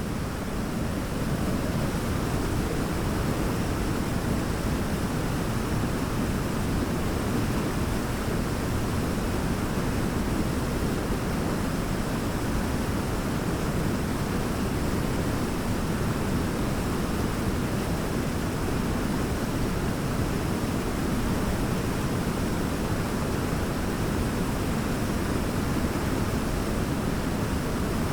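Large waterfall: a steady, dense rush of falling water, heaviest in the low end, fading in over the first second or so.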